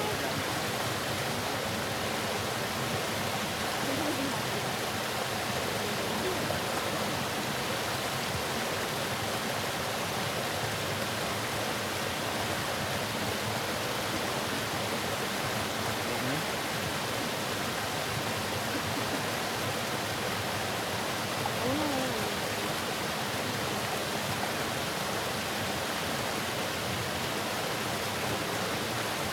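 Waterfall, a steady, even rush of falling water, with a few faint short pitched sounds over it.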